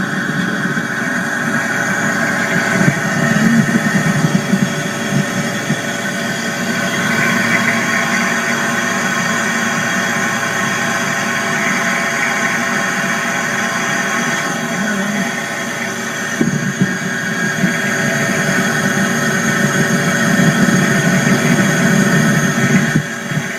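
Refrigeration unit of a three-door commercial glass-door fridge running shortly after start-up: the compressor and condenser fan give a steady hum made of many held tones.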